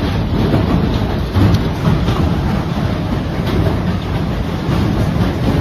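Heavy hail pelting down: a loud, steady, dense clatter of countless small impacts over a low rumble.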